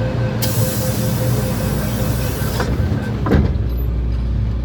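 MTR Kwun Tong line train with a steady low hum and faint steady whine, a burst of air hiss starting about half a second in and lasting about two seconds, then a single thump a little past the three-second mark.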